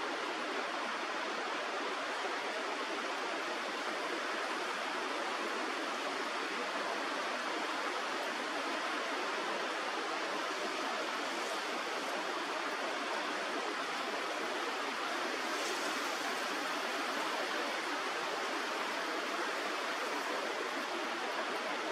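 Steady rush of flowing river water, an even noise without a break.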